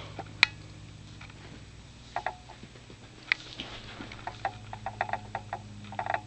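A container of baking powder being shaken and tapped to pour it onto carpet: one sharp click about half a second in, then light scattered taps and ticks that come faster in the second half. The powder seems to be stuck in the container.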